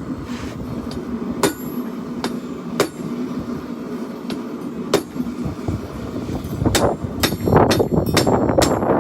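Hammer blows on steel at an anvil during forging: a few single strikes spaced more than a second apart, then about six and a half seconds in a quick run of several strikes a second.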